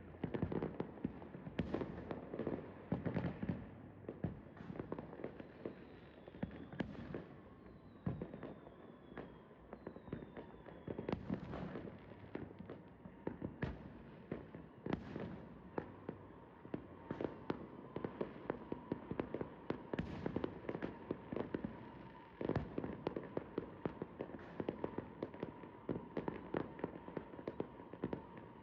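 Fireworks going off in rapid, irregular bangs and crackles, with a few falling whistles about a quarter of the way in.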